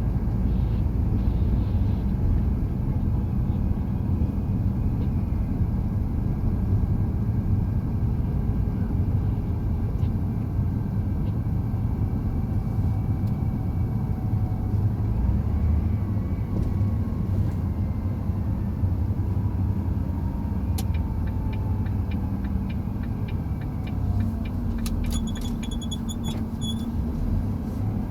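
Truck on the move: steady low engine and road rumble, with a faint whine that slowly drifts in pitch. A quick run of sharp, bright clicks comes in near the end.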